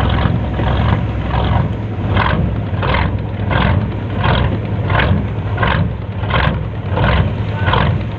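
Heavy engine running steadily, with a rhythmic chuffing about every 0.7 seconds over a low hum.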